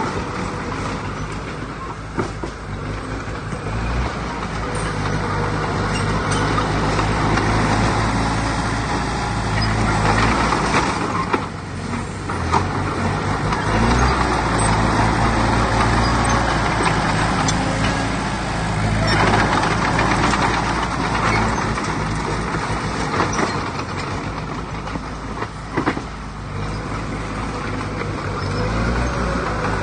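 Heavy diesel earthmoving machinery running under working load, the engine note swelling and easing several times, with a few short sharp knocks.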